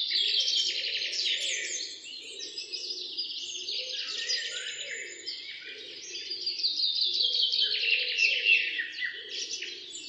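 Many birds chirping and trilling in a dense, continuous chorus, with a lower pulsing sound running under it.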